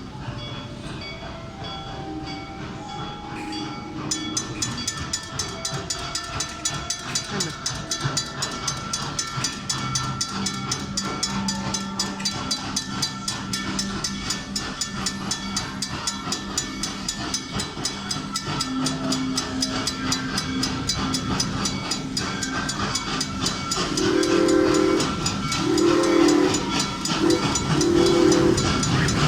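Park railroad train passing a crossing, running with a fast, even ticking from about four seconds in, then sounding its whistle in three blasts near the end.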